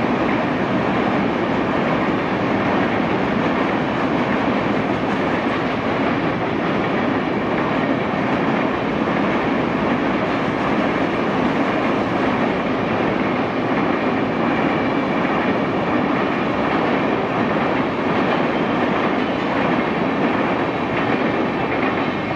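Passenger train's coaches rolling past, their wheels running on the rails in a steady, loud rumble.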